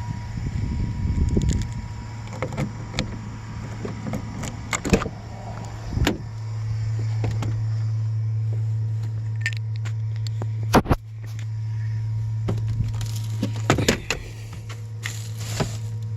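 Steady low buzz from a 2008 Chevrolet Express van, which the owner suspects comes from the ABS module. Scattered clicks and knocks sound over it, and the buzz cuts out briefly about two-thirds of the way through.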